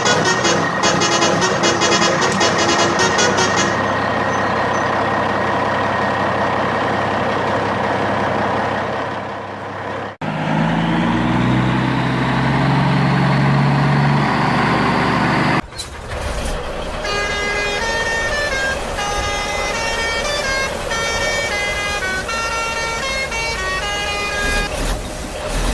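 Truck sound effects: an engine running with horn toots, then after a cut a low engine note with a rising whine. A run of short electronic beeping notes in a stepping tune follows.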